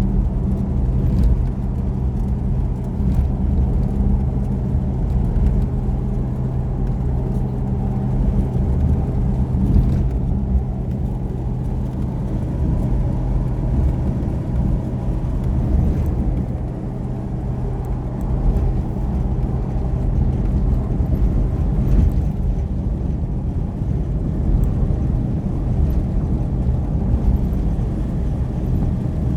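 A motor vehicle's engine running at a steady speed, a constant low drone with road noise.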